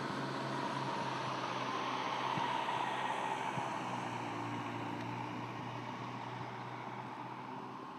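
Steady mechanical running noise with a low hum, like an engine or machine, slowly fading toward the end.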